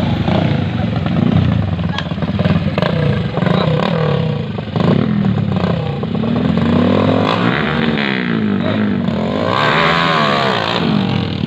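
Small motorcycle engines revving hard, the pitch climbing and dropping again and again, with two long surges about seven and ten seconds in.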